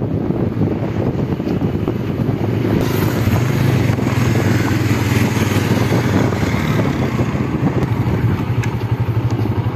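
Motorcycle engine running steadily while the bike is ridden along the road.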